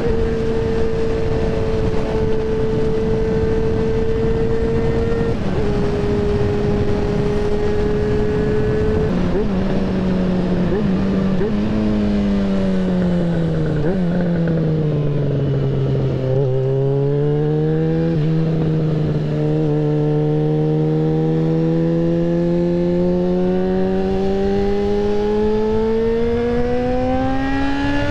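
Yamaha XJ6N's 600 cc inline-four engine heard from on the bike over wind rush. It holds a steady note, then winds down in pitch with a couple of short downshift blips, and then pulls steadily up through the revs in one gear.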